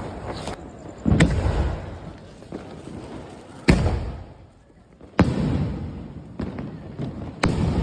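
Sonny 21st Century 24-shot firework cake firing its shots one after another: four sharp bangs about a second and a half apart, each trailing off in a fading rumble, with a couple of fainter pops between.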